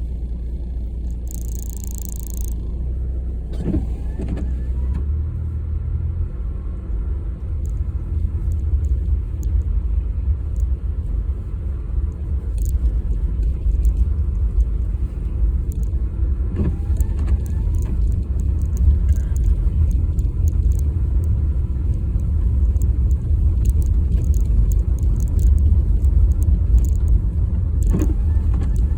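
Car driving, a steady low rumble of engine and road noise that slowly grows louder.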